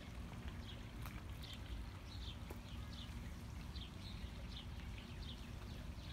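A bird singing a run of short, falling chirps, about two a second, over a low steady rumble.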